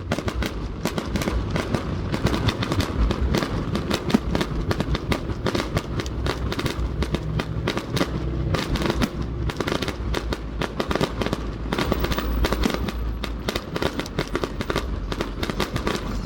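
Aerial fireworks bursting in a dense, continuous barrage of bangs and crackles, many per second, over a low rumble of booms.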